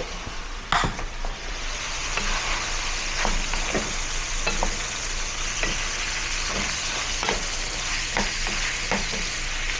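Meat sizzling in a pan while it is stirred, a spoon scraping and knocking against the pan every second or so. A sharp clack sounds just before the sizzle sets in, about a second in.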